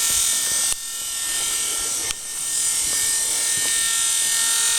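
Small 12-volt ventilation fan running very loud, a steady buzzing whir with its blades hitting a piece of wood beside the hole it blows through. The noise dips briefly twice, a little under a second in and about two seconds in.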